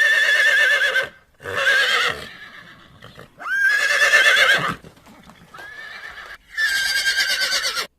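Horse whinnying: several loud neighs with a quavering, wavering pitch, one after another with short gaps between them.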